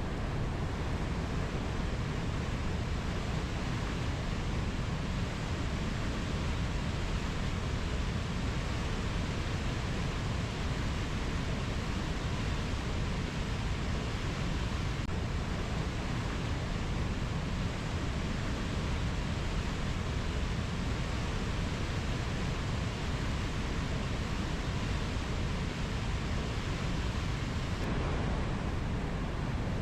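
Steady, even rushing noise of a rainforest ambience track, heaviest in the low end, with no distinct bird or insect calls standing out.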